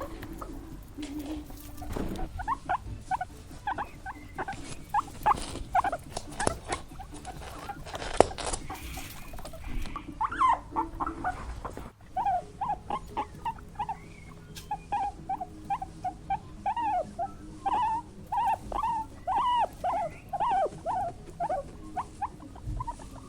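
A small animal squeaking in many rapid, short squeaks. They come in a sparser run with some scuffling, then, after a break about halfway, in a denser, steadier run.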